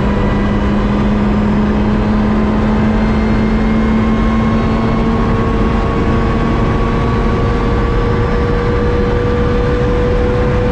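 Lotus Exige S supercharged engine at full throttle, accelerating steadily with no gear change. Its pitch climbs slowly and evenly, over a heavy rumble of road and wind noise inside the car.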